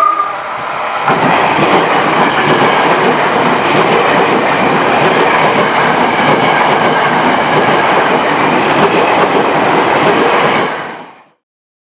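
Electric commuter train passing close by, its wheels clattering over the rails in a loud steady rush, with the tail of a horn blast just at the start. The sound fades out quickly near the end.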